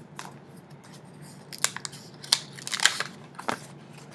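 Paper handling: a greeting-card envelope being torn open, with a cluster of short, sharp crinkles and clicks starting about a second and a half in.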